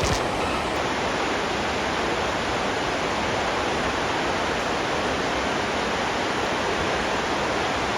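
Waterfall, a steady roar of falling water.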